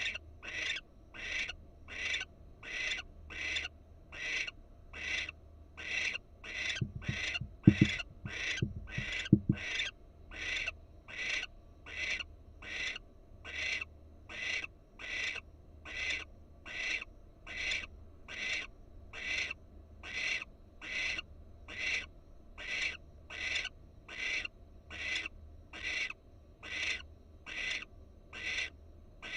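Barn owl giving repeated rasping, hissing 'snore' calls, evenly spaced at about one and a half a second. A few low knocks come about seven to nine seconds in.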